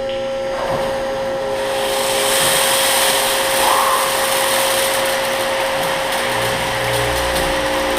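Automatic car wash rinse spraying cold water, a steady hiss that swells about a second and a half in, over a steady machine hum from the wash equipment.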